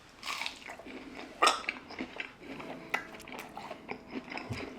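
Close-up mouth sounds of a man biting into and chewing a sauce-coated chicken nugget: irregular wet smacks and clicks, one louder about a second and a half in.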